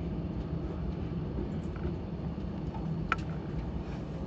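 Steady low running rumble heard inside the driver's cab of a Tobu 70000 series electric train as it rolls slowly along a station platform, slowing. A single sharp click sounds about three seconds in.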